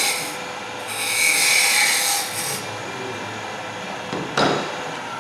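A tool scraping against spinning wood on a woodturning lathe. The loudest stretch comes about a second in and lasts about a second and a half, and there is a sharp knock about four seconds in.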